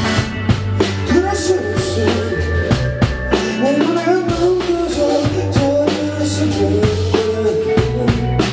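Live rock band playing: a drum kit with bass drum and snare hits keeps the beat under a bass line and a melodic lead that slides up and down in pitch.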